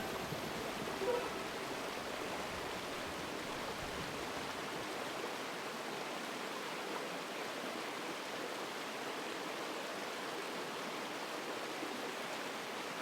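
Steady rush of flowing water, an even hiss that holds at one level without breaks.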